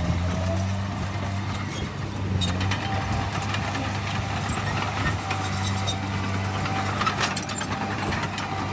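Diesel engine of heavy earthmoving machinery running steadily, with scattered metallic clicks and clanks over the hum.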